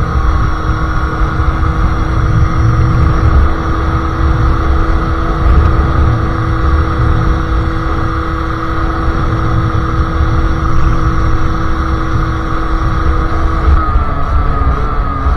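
Sherco SM-R 50cc two-stroke engine with a KRM exhaust and Polini carburettor, running at a steady high rev under way, over a heavy low rumble. Near the end the engine note drops in a few steps as the rider backs off.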